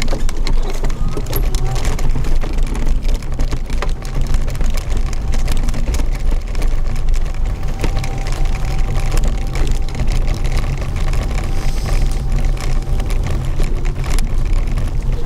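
Mobility scooter on the move: a steady low rumble with many small knocks and rattles, and a faint steady whine through most of it.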